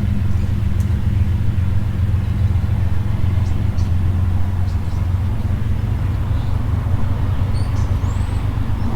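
A steady low mechanical rumble with an even, engine-like hum, with a few faint light metallic clicks of hand tools in the middle.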